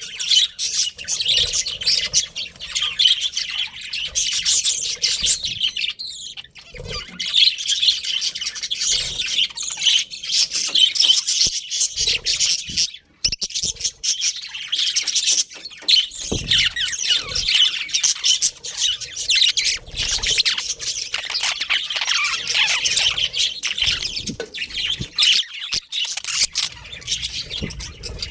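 Many budgerigars chirping at once: a continuous, dense chatter of high chirps.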